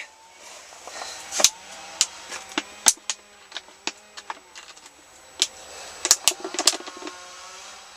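Scattered sharp knocks and clicks, irregular and a dozen or so in all, of things being handled while a funnel is brought out and set up for filling engine oil.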